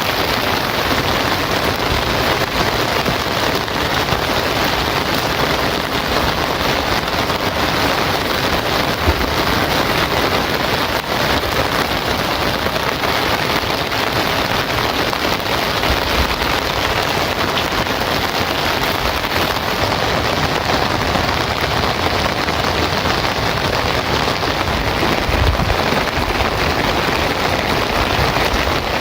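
Heavy rain falling steadily, a dense even hiss of rain on surfaces, with a couple of brief low thuds.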